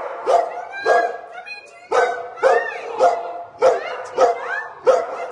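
Dogs barking repeatedly, about two barks a second, with high rising-and-falling yelps and whines between the barks.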